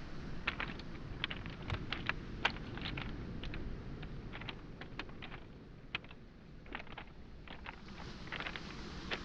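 Footsteps crunching over beach pebbles and small boulders, the stones clacking against each other in irregular sharp clicks, a few a second, easing briefly about two-thirds through. A steady low wash of waves on the shoreline lies underneath.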